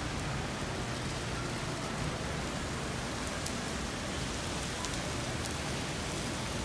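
Heavy rain falling on wet paving and street: a steady hiss of rain, with a few faint ticks of single drops.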